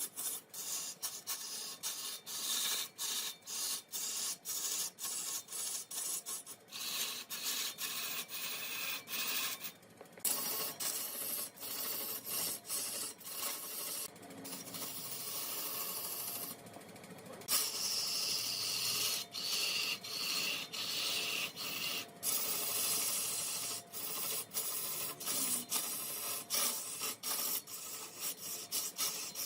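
Wood being cut or scraped on a wood lathe: a steady rasping hiss of tool against spinning wood, broken over and over by brief gaps.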